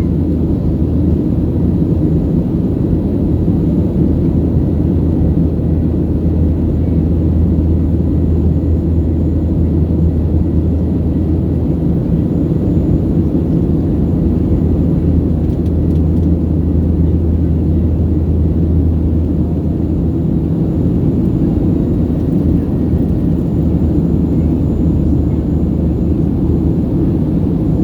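Steady low rumble of a Boeing 737-700's CFM56 engines and airflow heard inside the passenger cabin. A deep hum under the rumble fades away about twenty seconds in.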